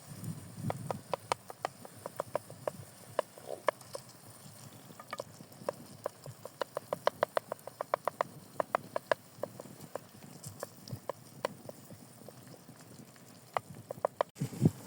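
A run of sharp, short taps or knocks, irregular at first, then quick and fairly even at about four to five a second in the middle, then sparser again.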